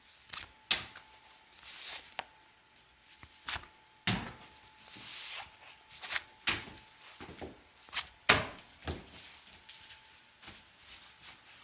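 Scattered sharp knocks and clicks, irregularly spaced, with a few brief rustles between them; the loudest knock comes a little past the middle.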